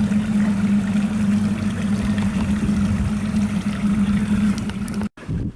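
Engine of the motor vessel Tuhoe running steadily, a constant low hum over the wash of water along the hull. It cuts off abruptly about five seconds in.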